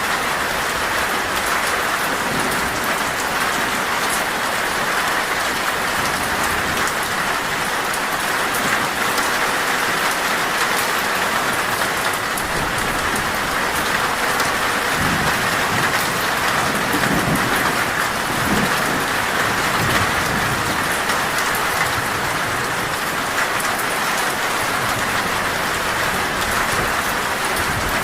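Torrential rain drumming steadily on a metal roof, a dense hiss of countless drop ticks. A low rumble of thunder swells and fades from about fifteen to twenty-one seconds in.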